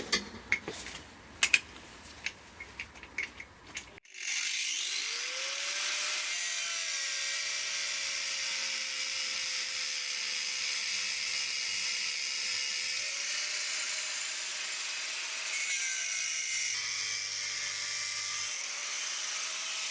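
A few handling clicks and knocks, then about four seconds in a power tool, taken to be an angle grinder, spins up with a rising whine and cuts steel. The whine shifts a few times as the load changes.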